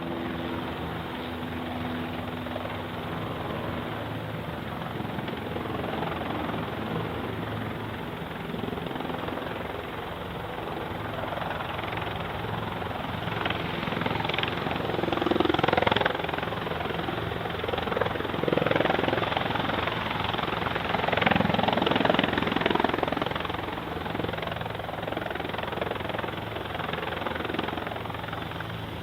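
Piston engine and propeller of a light aircraft running with a steady drone, growing louder at times.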